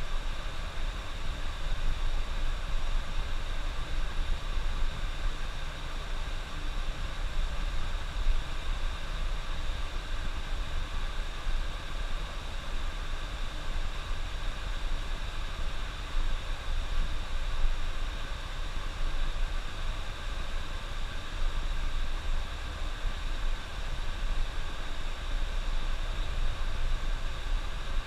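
Steady running noise of a coach on the road: engine drone and a continuous hiss of tyres and wind, with no change throughout.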